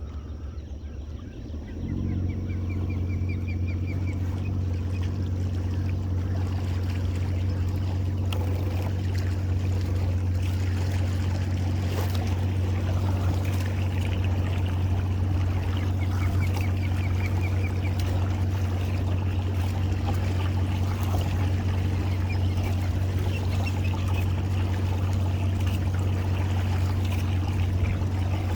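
Boat motor comes in about two seconds in and runs steadily at low speed, with water trickling against the hull.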